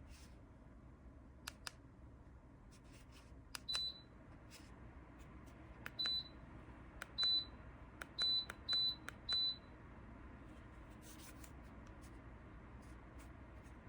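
Dreo electric tower space heater's control beeping as its buttons are pressed: six short, high beeps between about four and nine and a half seconds in, each just after a light click, over a faint steady low hum.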